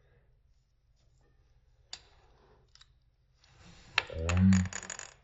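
Clicks and scraping of small plastic landing-gear parts being worked off a die-cast airliner model, slowed down so they sound drawn out and low. A few single clicks come first. Near the end there is a dense run of clicking, with a louder low creak with a rising pitch as a part comes free.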